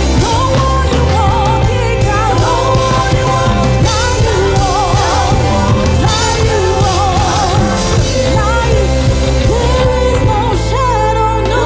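Gospel worship song: voices singing wavering melodic lines over a band with a steady low accompaniment.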